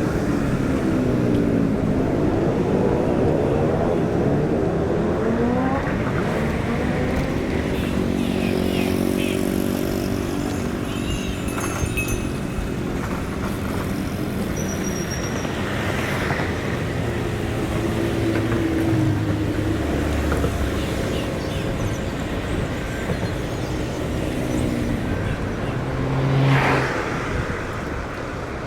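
City road traffic: motor vehicles driving past over a steady traffic noise, their engine pitch gliding up and down as each one passes, with one louder pass near the end.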